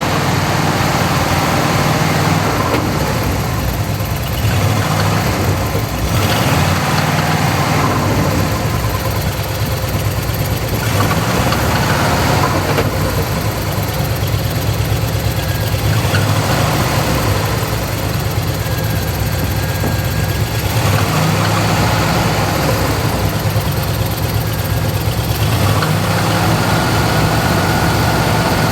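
Olds engine running steadily at idle, a continuous low, even engine note.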